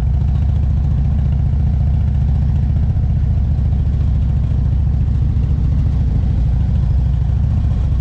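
Motorcycle engine running steadily: a low, even drone that holds the same pitch throughout.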